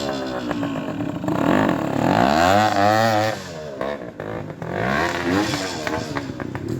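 Trials motorcycle engine revved in blips, its pitch rising and falling, loudest about two to three seconds in, with another burst of throttle about five seconds in.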